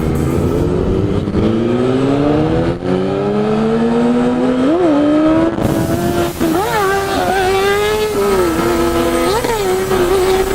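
Yamaha FZ-09's three-cylinder motorcycle engine pulling under acceleration, its pitch climbing steadily for about four seconds. It then holds a fairly steady pitch, with a few brief jumps up and back down.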